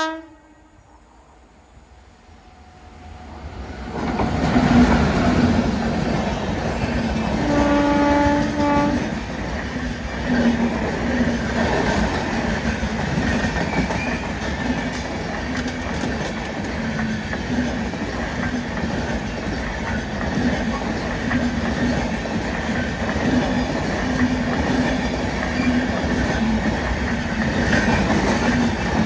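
Indian Railways express hauled by a WAP-7 electric locomotive passing close by on a curve. It is quiet for the first few seconds, then the rumble and wheel clatter of the coaches rolling past set in and hold steady, with a short horn blast about eight seconds in.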